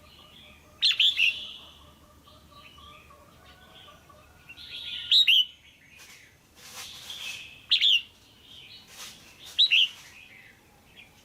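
Female red-whiskered bulbul calling: loud, sharp chirps every couple of seconds, with softer chattering notes between.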